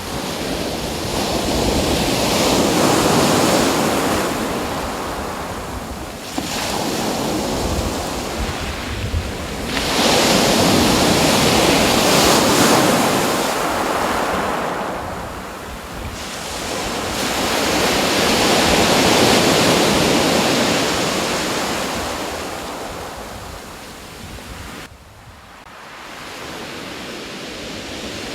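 Ocean surf: waves breaking and washing up the shore in slow surges, three big swells each rising and falling over several seconds.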